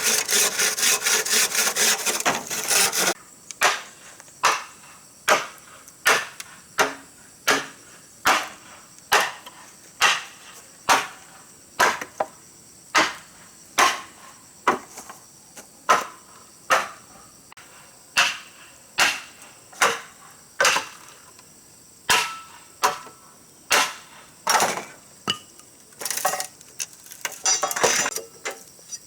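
Wood being sawn by hand for the first few seconds, then steady blows on wood, a little more than one a second, like hammering or chopping timber. Near the end the blows give way to quicker knocks and scraping.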